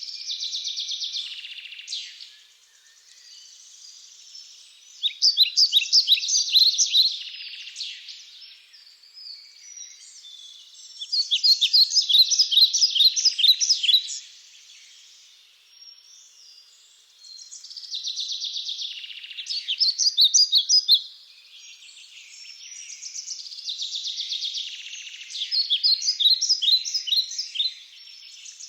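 A songbird singing loud phrases of quick, high notes, each lasting about two to three seconds and repeating every five to six seconds, with fainter bird calls between the phrases.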